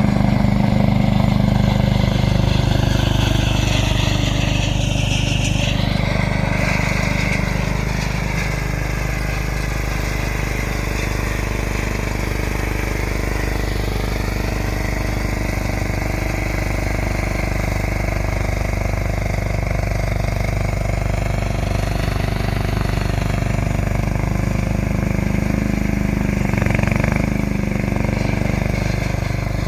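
John Deere engine running steadily under load while clearing snow, with its higher tones wavering for a few seconds near the start.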